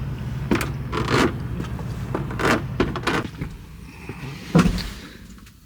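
Door of a Freightliner semi-truck cab being opened and climbed into: a series of clicks and knocks from the handle, latch and steps, then a heavy door thump about four and a half seconds in. A steady low engine hum runs underneath and drops away once the door is shut.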